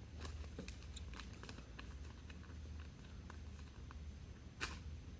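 Faint clicks and rustles of trading cards and their plastic holders being handled, with one sharper click near the end, over a low steady hum.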